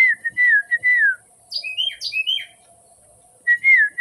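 Male Carolina wren singing loudly: a run of clear, downward-slurred whistled notes, a higher two-part phrase repeated twice, then the slurred notes again near the end.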